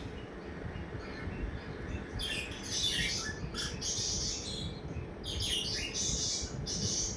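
Pet cockatiel chirping in scratchy clusters of quick calls, about three bouts, over a steady low background noise.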